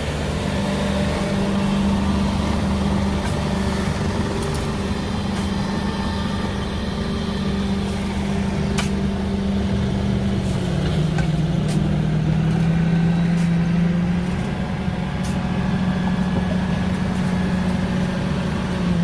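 Engine of an excavation machine running steadily. Its pitch drops for a few seconds midway and then comes back up, with a few light knocks over it.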